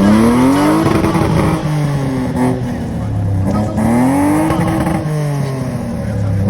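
Car engine revved hard twice, its pitch climbing, holding and dropping back each time.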